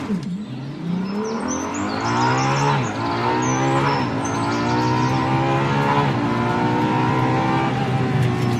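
A motor running and revving up in pitch several times, its speed swelling and settling, with birds chirping in the background.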